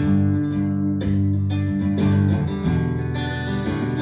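Live guitar music: a strummed acoustic guitar playing the song's accompaniment, with no singing.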